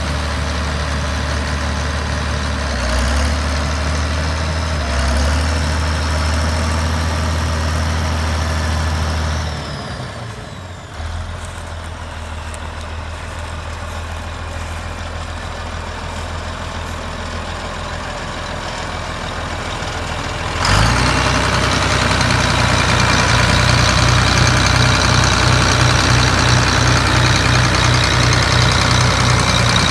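Allis-Chalmers 7040 tractor's diesel engine running steadily. About ten seconds in it drops to a quieter, lower note. About twenty seconds in it jumps abruptly louder and higher and holds there steadily.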